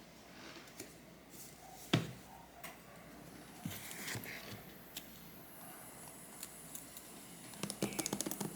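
Small clicks and taps of miniature plastic kitchenware being handled, with one sharper knock about two seconds in and a quick run of clicks near the end.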